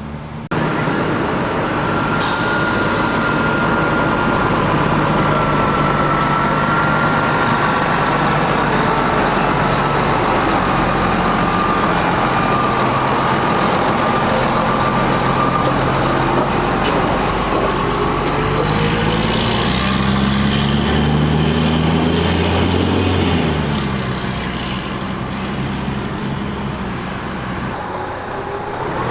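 A fire truck's diesel engine running steadily close by, with a sudden burst of hissing about two seconds in. About twenty seconds in the engine note rises, then drops back.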